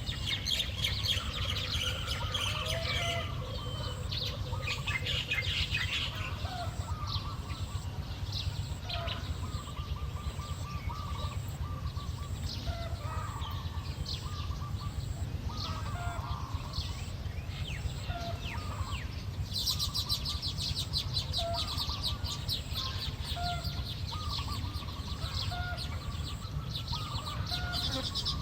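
Weaver birds chattering with many quick, high chirps that grow much denser about two-thirds of the way in.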